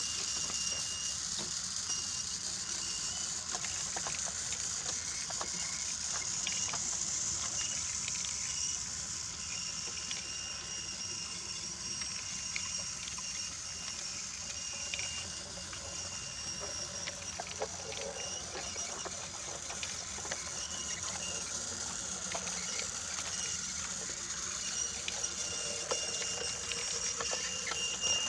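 Battery-powered Brio toy locomotive running on wooden track: a steady, high small-motor whir with a thin tone that comes and goes, and light irregular clicks as the wheels pass over the track joints.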